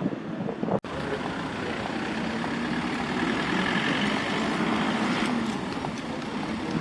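Street traffic: a motor vehicle's engine passes, growing louder in the middle and fading again, over a steady wash of road noise. The sound cuts out for an instant about a second in.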